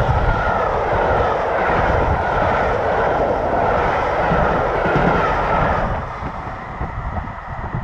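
Passenger coaches of a steam-hauled train rolling past on the track, a loud steady rumble and rush of wheels on rails that falls away about six seconds in as the last coach passes.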